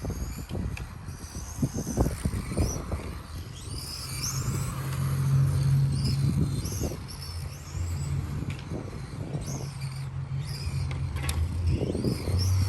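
Electric 1/10 touring RC car's motor whining high, rising and falling in pitch again and again as the car accelerates and brakes around the track. A low steady hum sits underneath from about four seconds in, with irregular low rumbles near the start.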